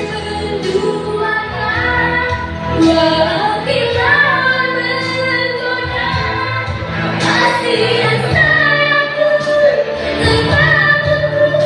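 A young female singer singing a pop ballad live over band accompaniment.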